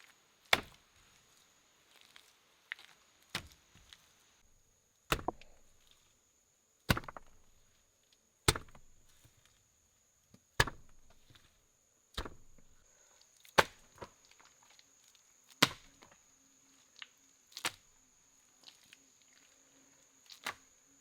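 Wood being chopped with a blade: about a dozen sharp, separate strokes, one every one and a half to two seconds.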